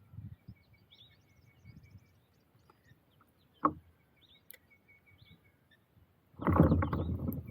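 Small birds chirping, with one giving a quick repeated trilling call, and a single sharp knock about three and a half seconds in. Near the end a loud, irregular rush of noise starts suddenly and drowns out the birds.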